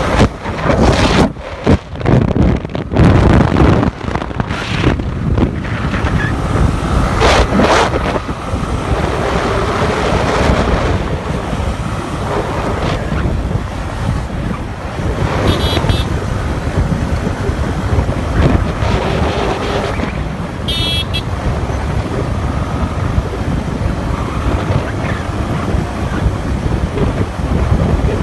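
Wind buffeting the microphone, gustiest in the first few seconds, over the steady rumble of a moving vehicle.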